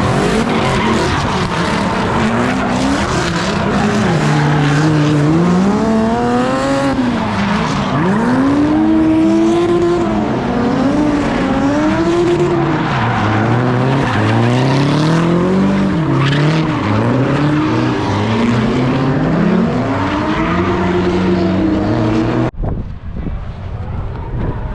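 Drift car engine revving up and down over and over as it slides, with tire squeal and skidding. The sound cuts off suddenly near the end, leaving a quieter rushing noise.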